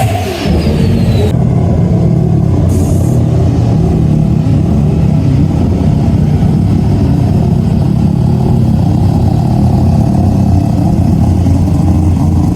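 Turbocharged car engine dropping off a rev to a steady idle, with the turbo's whistle falling away over the first second or so and a short hiss about three seconds in.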